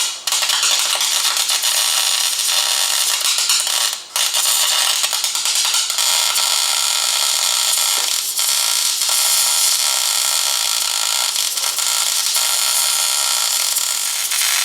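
MIG welder arc crackling steadily as a bead is laid on a steel repair piece at a truck's front shock mount, breaking off briefly near the start and again about four seconds in.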